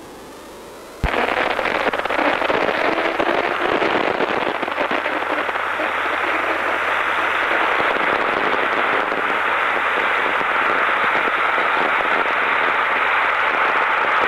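Motorcycle intercom radio link (Autocom) opening with a click about a second in, then a steady loud rush of hiss and wind noise carried over the channel, sounding band-limited like a radio. The pupil's Autocom VOX was set wrong.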